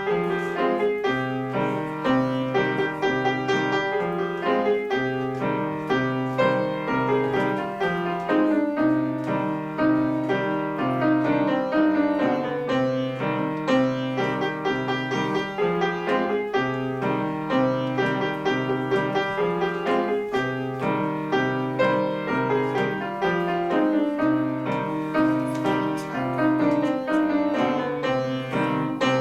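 Solo piano played without a break: a steady stream of quick notes over a recurring bass line.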